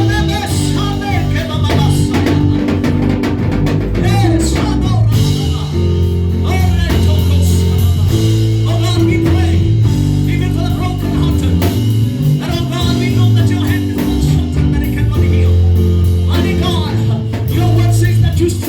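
Live worship music with a band: bass, guitar and drums holding sustained chords, with voices singing or praying over it.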